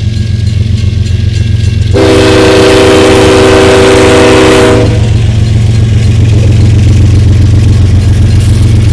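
BNSF diesel freight locomotive sounding its air horn once, a held chord of several tones lasting about three seconds, starting about two seconds in, over the steady low rumble of its diesel engine.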